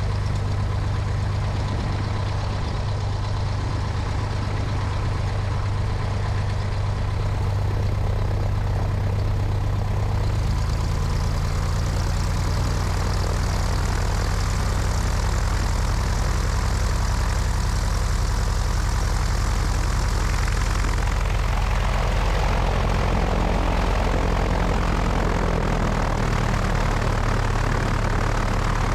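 Cessna 172's piston engine and propeller running steadily, heard from the wing, with wind on the microphone. The engine note shifts about a third of the way in, and about two-thirds in a stronger rushing noise joins it as power or airflow increases.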